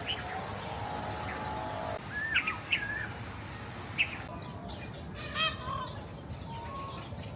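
Several birds calling in a walk-in aviary: short chirps and whistles every second or two, then one louder call of several stacked tones about five seconds in.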